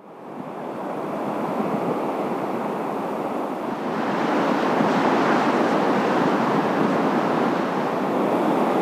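Surf breaking against a seawall in a strong wind, with wind buffeting the microphone: a steady rushing noise that grows louder about four seconds in.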